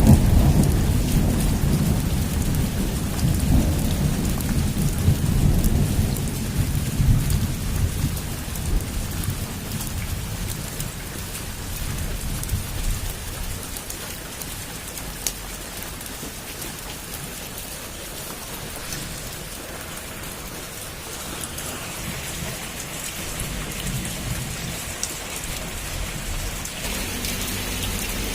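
Heavy rain falling on a roof, with a long roll of thunder at the start that fades away over about ten seconds. After that the rain runs on steadily and gets a little louder near the end.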